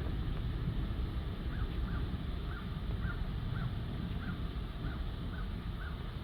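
A bird calling in a quick, even series of short notes, about two to three a second, starting a second or so in, over a steady low rumble of wind and storm noise.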